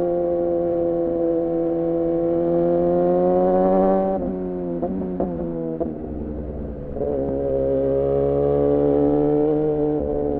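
2014 Yamaha R6's inline-four running through an R9 titanium muffler and Leovince header while riding. The revs climb slowly, then drop off the throttle about four seconds in with a couple of quick blips, and the bike pulls again about seven seconds in.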